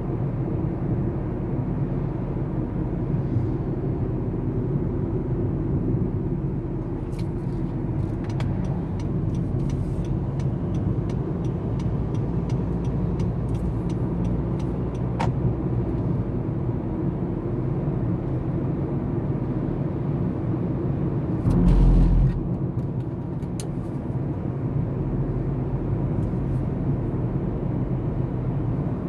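A baler running with its engine at a steady drone. For several seconds a run of sharp clicks sounds over it, and about three-quarters of the way through there is one short, loud thump.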